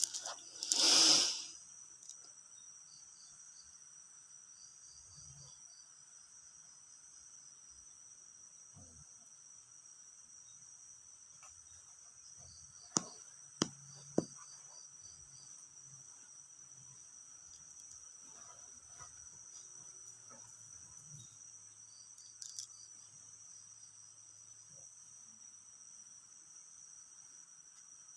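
Insects chirping in a steady, high-pitched chorus with a regular pulsing beat. There is a loud rustle about a second in, and three sharp clicks close together around halfway through.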